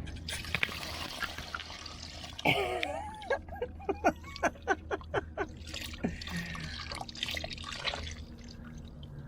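Water draining out of an old excavator engine, trickling and splashing, with a run of quick gurgling glugs in the middle. It is water where the engine oil should be: the crankcase is full of water.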